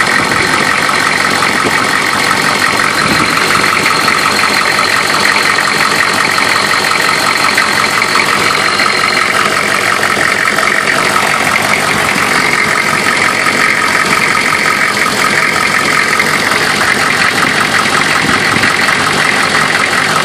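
A 1994 Chevrolet's 6.5-litre turbo-diesel V8 idling steadily, with no change in speed.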